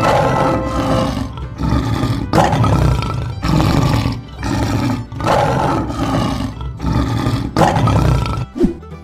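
Lion roaring over and over, about eight rough roars of roughly a second each in quick succession.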